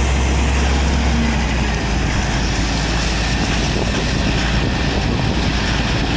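Heavy truck engine running loudly and steadily, with a deep low drone that eases about two seconds in.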